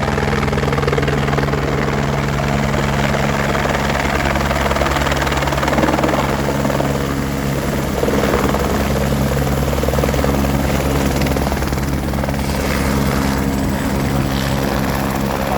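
Helicopter running steadily in flight, with a fast, even rotor chop under a steady engine hum.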